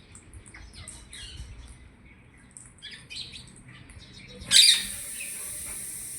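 Parrot and other birds chirping with quick high tweets and a few harsher squawks. About four and a half seconds in, a loud burst turns into a steady rushing hiss that stops suddenly near the end.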